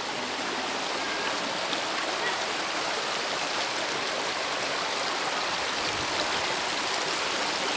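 Shallow river water flowing, a steady rushing sound.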